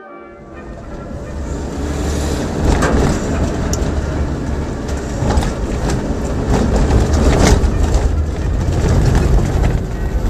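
A vehicle on the move: steady low rumble and road noise that swell over the first two seconds and then hold, with scattered knocks and rattles.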